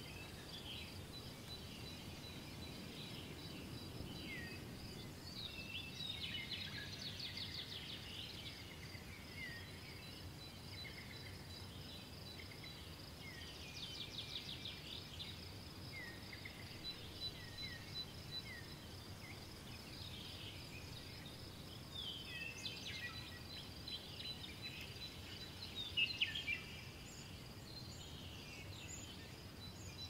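Morning birdsong: several birds chirping and trilling in scattered bursts over steady low background noise, with a faint continuous thin high tone; the loudest burst of calls comes a few seconds before the end.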